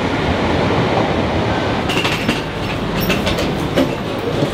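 Train noise: a steady rumble of rail vehicles, with a run of sharp clicks and rattles from about halfway through.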